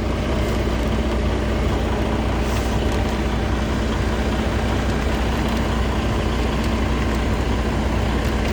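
Truck's diesel engine idling, a steady low rumble with a constant hum.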